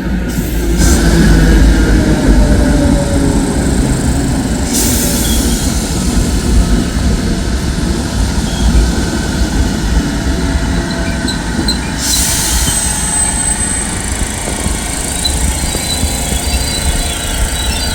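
Train running close by on the station tracks: a steady heavy rumble of wheels on rail with rushing noise that swells a few times, and a thin high wheel squeal about twelve seconds in.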